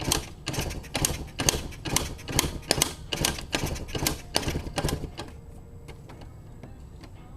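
1983 Yamaha YZ250 two-stroke engine firing about a dozen uneven putts over some five seconds, then dying: the bike catches briefly but won't keep running.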